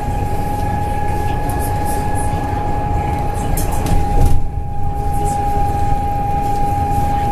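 Cabin sound of a moving double-decker bus, KMB ATR212: a steady drivetrain rumble with a constant high whine, scattered body rattles, and a brief louder low jolt about four seconds in.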